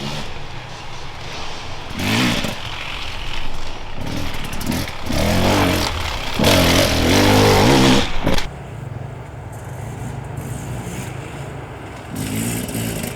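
Off-road enduro motorcycles riding past, engines revving up and down through the gears. The engine note swells several times, is loudest about two thirds of the way through, drops off suddenly, and a further bike revs up near the end.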